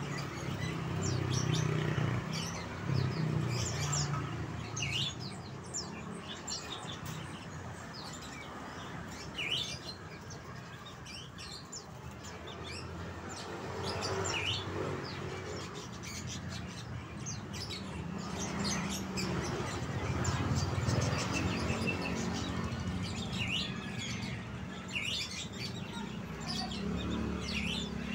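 Songbirds chirping: many short, high chirps that sweep quickly downward, coming thick and fast throughout. A low rumble comes and goes underneath.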